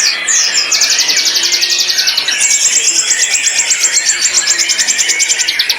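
White-rumped shama (murai batu) singing: long runs of rapid, short, high repeated notes, about ten a second, the pitch stepping up about two and a half seconds in and dropping again near the end, over a background of other birdsong.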